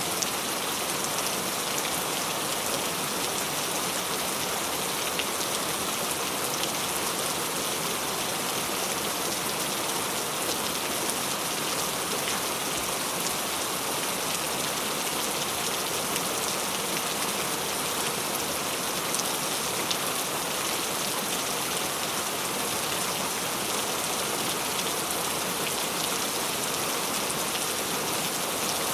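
Steady rain falling, a dense even hiss of drops hitting a surface with fine patter, unchanging throughout.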